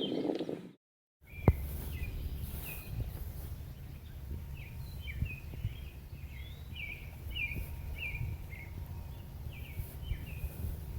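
Wild songbird calling outdoors: a string of short, clear notes that slide downward, about two a second, over a low steady rumble on the microphone, with one sharp knock about a second and a half in.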